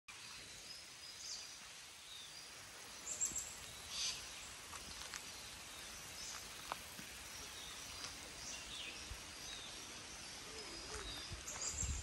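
Forest birds chirping, short high calls scattered throughout over a faint steady background, with the loudest calls about three and four seconds in.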